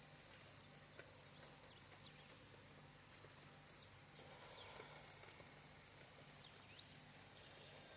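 Near silence: faint outdoor ambience with a low steady hum, a few faint ticks and two or three short high chirps near the middle.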